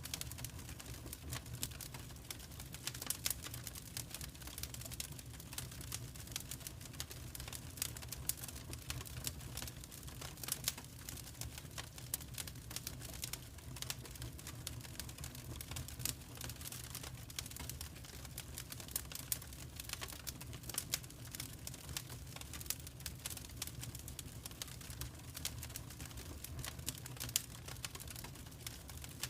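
Wood fire in a fireplace crackling steadily: a dense, irregular run of small sharp pops and snaps over a low, even rumble of the flames.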